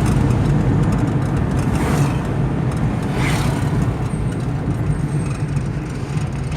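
Steady road and engine noise of a moving car, heard from inside the cabin as a low drone under a rushing haze, with brief louder swells about two and three seconds in.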